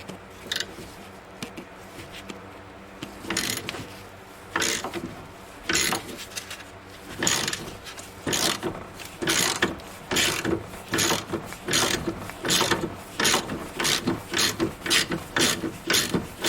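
Ratchet wrench turning the forcing screw of a ball joint press, pressing the worn lower ball joint out of the control arm: strokes of ratcheting clicks, about one a second at first and coming faster toward the end.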